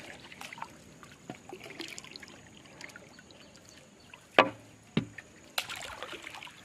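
Faint water sounds of a river, broken by three sharp knocks about half a second apart a little past the middle, the first the loudest.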